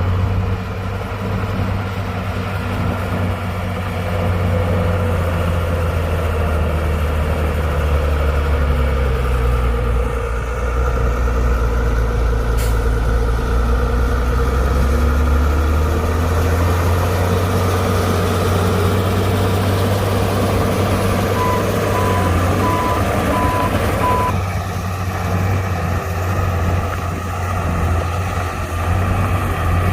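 Heavy diesel earthmoving machinery running steadily: a Komatsu D60-P bulldozer working dirt alongside a dump truck. About two-thirds of the way through, a reversing alarm beeps about five times.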